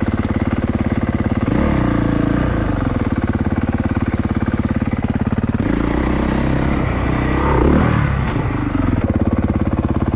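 Single-cylinder four-stroke dirt bike engine running at a low, steady pace, with a couple of small rises and falls in revs, the loudest swell about three-quarters of the way through.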